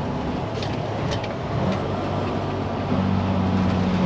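Diesel engine of a day-cab truck running under way, heard from inside the cab, with a few faint clicks early on. About three seconds in, the engine note grows louder and steadier.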